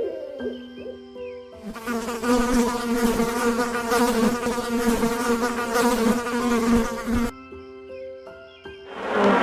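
Insect buzzing: a steady buzz lasting about six seconds over soft background music. Near the end a loud rushing noise begins.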